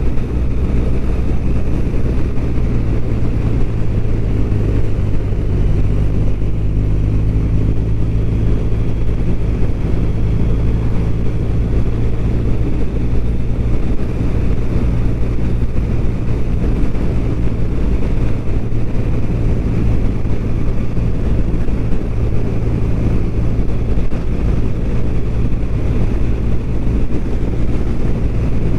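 BMW R1200RT's flat-twin boxer engine running at a steady speed under way, with a low, even drone of engine, wind and road noise.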